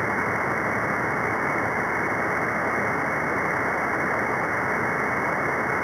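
Steady static hiss from a CB radio receiver tuned to the free band above channel 40, muffled with no highs. It is an open channel with no station coming through.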